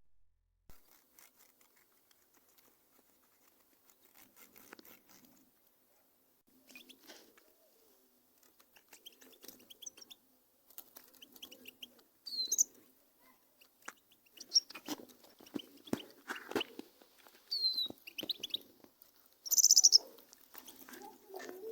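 Caged canaries chirping in short, high calls, sparse at first and more frequent in the second half, the loudest burst about two seconds before the end.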